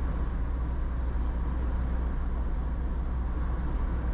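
Steady low road and engine rumble of a vehicle driving at speed, heard from inside the cabin.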